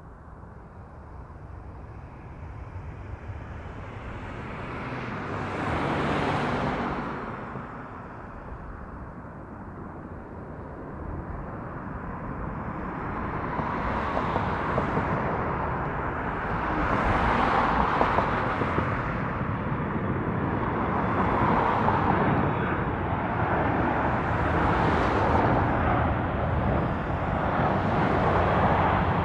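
Jet aircraft engine noise that swells and fades several times and grows louder overall.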